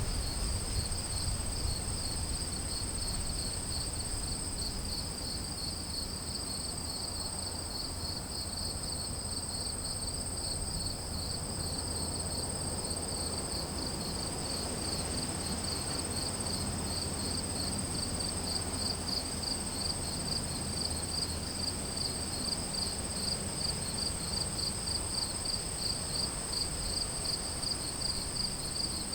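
Crickets and other insects calling steadily: a continuous high-pitched trill over a lower, pulsing chirp at about two chirps a second, with a faint low rumble underneath.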